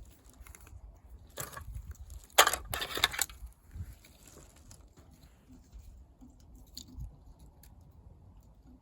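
A cluster of crunching, rustling handling noises, loudest about two and a half seconds in, then only faint scattered ticks.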